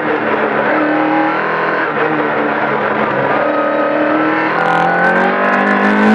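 Stage-rally car's engine heard from inside the cabin under power, its pitch holding with small steps and then climbing steadily from about two-thirds of the way in as the car accelerates. Short rushes of hiss-like noise come in over it near the end.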